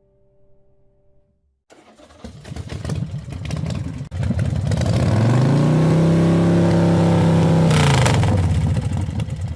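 Yamaha VMAX's 1,679 cc V4 engine running, then revved up about halfway through, held high for about three seconds, and let fall back. Faint background music ends just before the engine comes in.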